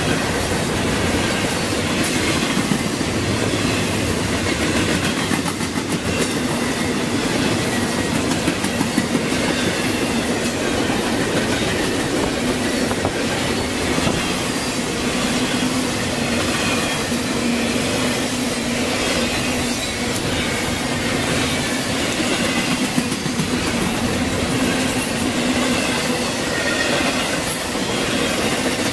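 Intermodal freight train's container and trailer cars rolling past steadily, their steel wheels running on the rails, with a thin wheel squeal at times.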